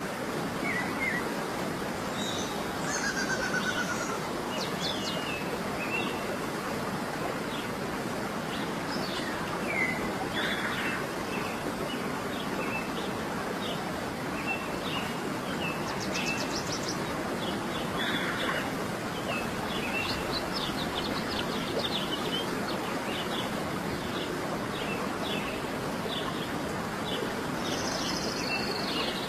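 Several birds chirping and trilling, with quick runs of repeated notes, over a steady rush of running water.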